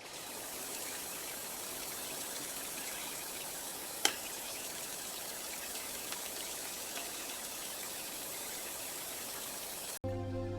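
Steady rushing noise of running water, with one sharp click about four seconds in.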